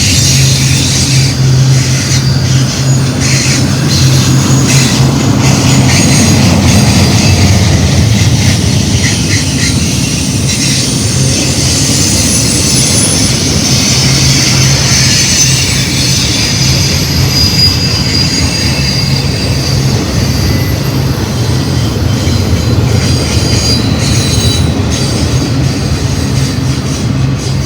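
Intermodal freight train rolling past at close range: steady rumble of the cars with high-pitched wheel squeal and scattered clicks of wheels over rail joints.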